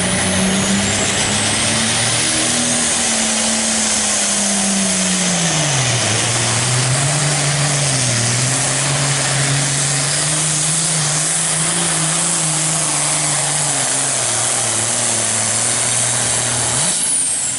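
Hot stock pulling tractor's turbocharged diesel engine running flat out under load. Its pitch climbs, then sags about six seconds in and holds lower as the engine is pulled down, with a faint high whistle sweeping up at the start.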